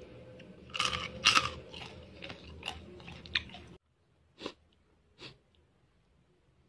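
Someone chewing crunchy fried grasshoppers: a run of loud, crackly crunches about a second in, more scattered crunches after, then two single crunches near the middle.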